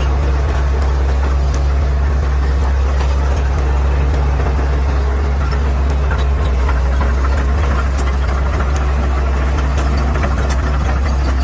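Caterpillar D6R XL bulldozer's diesel engine running at a steady speed with a deep, even drone, with faint scattered clicks over it.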